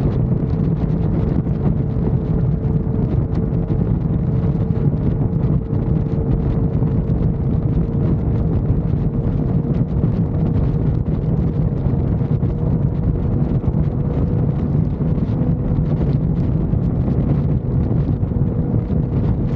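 Wind rushing over the microphone of a motorcycle cruising at highway speed, with the steady drone of the engine and one held tone underneath.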